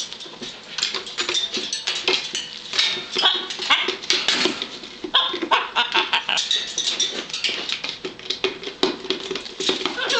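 Blue-and-gold macaw chattering without clear words, a rapid, irregular run of short sounds and clicks.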